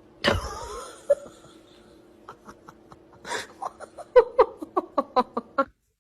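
A person laughing in a quickening run of short, high-pitched bursts with a sharp intake of breath partway through. Before the laughter there is a sudden loud cry or bang about a quarter second in.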